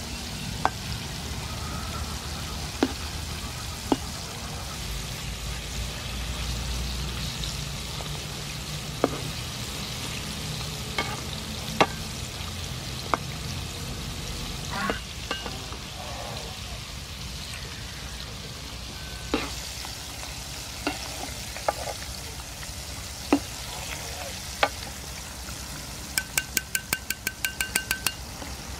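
Battered squid rings deep-frying in hot soybean oil in a pan: a steady sizzle, with scattered sharp clicks of a metal ladle against the pan as they are stirred. Near the end comes a quick run of ringing metallic taps as a wire mesh skimmer lifts the fried rings out.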